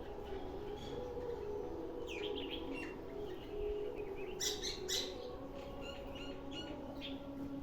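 Sparrows chirping in short, scattered bursts, with the loudest cluster of chirps about halfway through.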